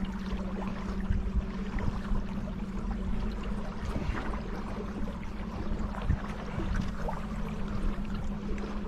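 Water splashing and lapping on a river, with scattered small clicks and splashes, over a steady low hum.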